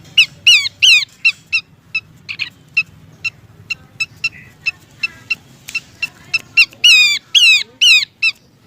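Pelanduk semak (Horsfield's babbler) calling: a quick series of short, sharp chirps, broken by louder downward-slurred whistles that come in clusters about half a second in and again near the end.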